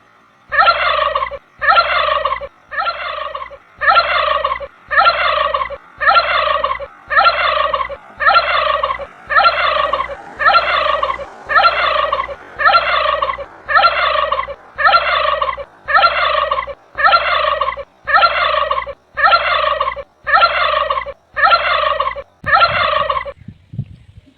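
Turkey gobbling: the same rattling gobble repeated at even spacing about once a second, around two dozen times, over a steady low hum.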